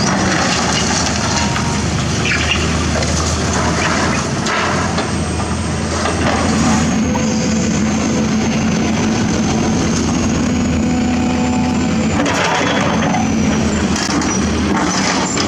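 Excavator's diesel engine running steadily under working load, with a faint high hydraulic whine that drifts in pitch and a few spells of scraping and crunching from the digging.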